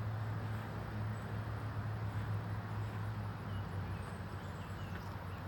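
A steady low mechanical hum, with a few faint, short bird chirps in the second half.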